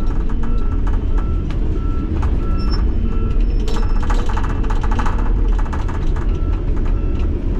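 Kenworth T800 truck's backup alarm beeping about twice a second as the truck reverses during a turnaround, pausing midway and starting again near the end. Under it runs the steady low rumble of the truck's diesel engine, with occasional rattles.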